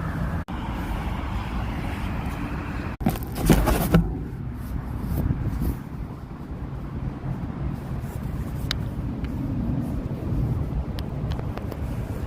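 Steady low rumble of a vehicle's engine and road noise, muffled through a cardboard box holding the camera. About three seconds in comes a short burst of rustling and knocks, with a few faint clicks later.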